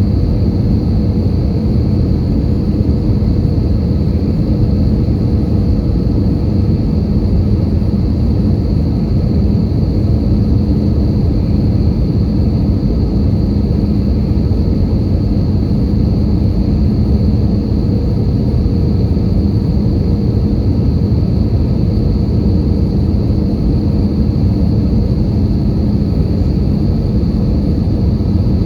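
Airbus A320 cabin noise in flight: a steady, unchanging rumble of engines and airflow with a low hum and a faint high whine.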